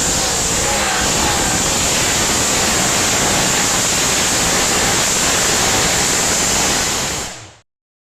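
Loud, steady roar of a tractor-pull engine, with a steady high whistle over it, cutting off abruptly about seven and a half seconds in.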